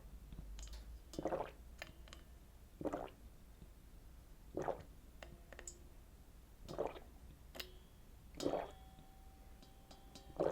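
Close-miked eating of fish cake soup: a wet, squishy mouth sound about every one and a half to two seconds, with light clicks and a few short ringing clinks of a utensil against a dish.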